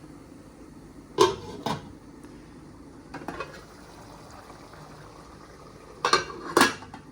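Household objects knocked or set down: two sharp clacks about a second in, a softer clatter mid-way, and two more sharp clacks near the end, over a steady low hum.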